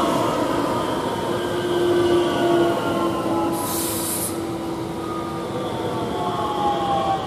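Electric multiple unit passing at speed close by: a steady rumble of wheels on rail, with motor whine tones slowly falling in pitch. A brief high hiss comes about three and a half seconds in.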